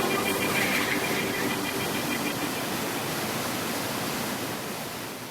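A steady rush of noise that slowly fades out near the end, with the last held notes of music dying away in the first couple of seconds.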